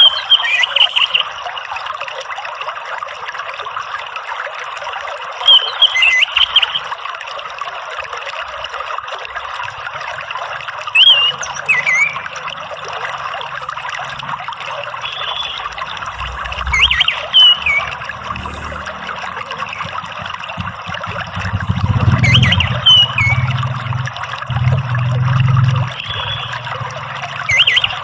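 Water trickling steadily, with short, loud whistled song phrases of an orange-headed thrush breaking in every few seconds. A low rumble sits underneath for a few seconds near the end.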